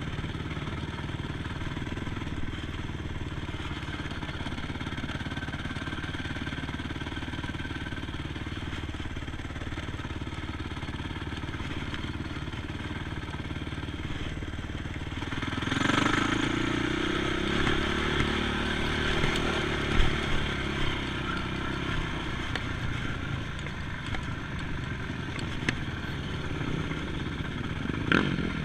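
ATV engines running: a steady low engine note, then about halfway through a louder engine whose pitch rises and falls as it revs or passes. A few sharp knocks and clatter follow.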